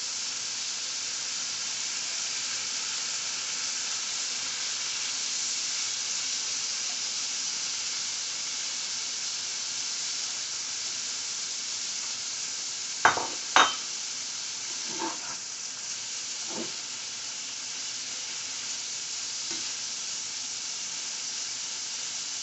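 Ackee and saltfish with peppers and onions sizzling steadily as they fry in a pan. About halfway through there are two sharp knocks close together, followed by a few lighter taps.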